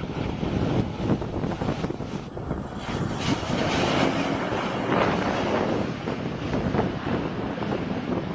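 Light aircraft in flight: steady engine and wind noise, with no distinct tone standing out.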